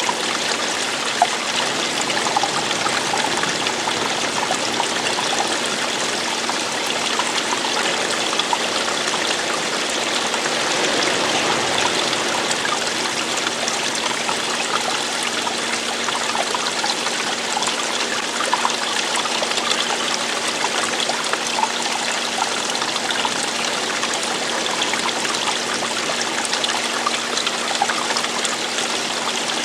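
Running water trickling and splashing steadily, with no change.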